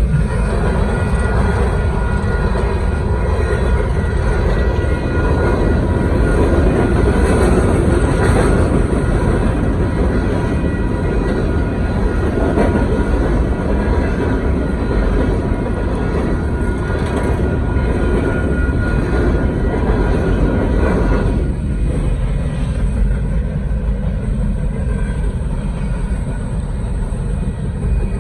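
Union Pacific coal train rolling past: a steady loud rumble and rail noise of the freight cars going by, with faint steady high ringing tones over it. The middle of the noise eases about three-quarters of the way through.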